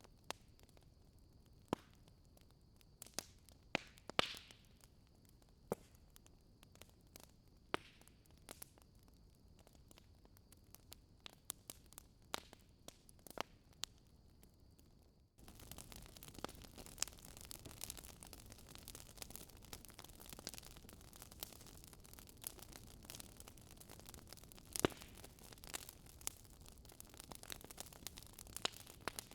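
Wood fire crackling in a fireplace: scattered sharp pops and snaps over a soft hiss, the crackle becoming denser and louder about halfway through.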